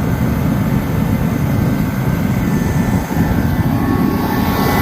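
Dyna-Glo KFA80H 80,000 BTU forced-air heater running on diesel: the burner and blower make a loud, steady roar with a faint whine over it.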